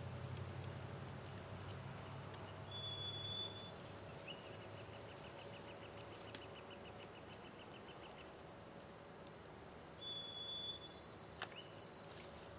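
A songbird singing: two clear whistled notes, the second higher, then a rapid even trill for about three seconds. The two whistles come again near the end, over a faint low hum that fades in the first few seconds.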